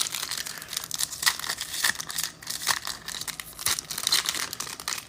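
Crinkling of foil trading-card pack wrappers and cards being handled: a continuous run of quick, sharp crackles and clicks.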